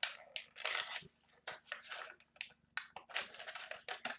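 Plastic packaging crinkling and tearing as it is pulled open by hand, in irregular short bursts.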